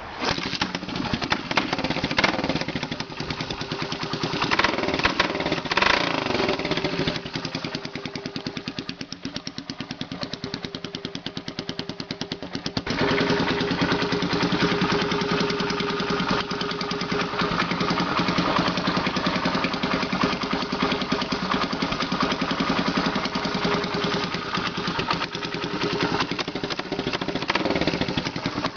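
1974 Honda XL175's single-cylinder four-stroke engine running through a homemade exhaust of bent electrical conduit, which gives it a higher, less deep note. The revs rise and fall for the first several seconds. About halfway through it settles into a louder, steady run.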